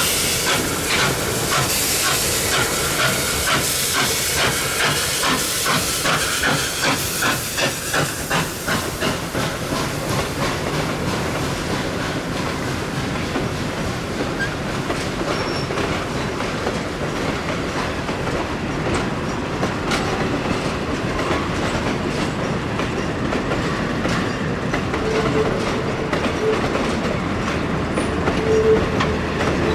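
Victorian Railways K class steam locomotive working a train, its exhaust beats coming about twice a second and fading after about ten seconds, followed by the carriages' wheels clattering over the rail joints.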